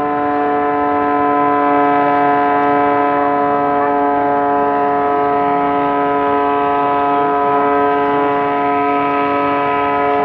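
A loud, steady hum held at one pitch, rich in overtones.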